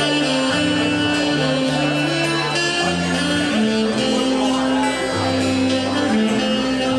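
A band playing a song, with guitar and bass notes held and changing every second or so.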